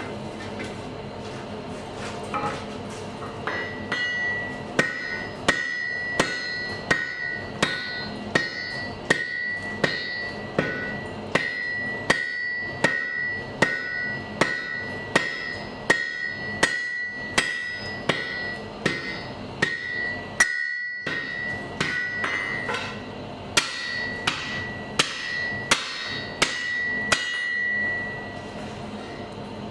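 Blacksmith's hammer striking a steel anvil in a steady rhythm, a little more than one blow a second, starting a few seconds in. Each blow leaves the anvil ringing with a clear high tone, and there is one brief pause about two-thirds of the way through.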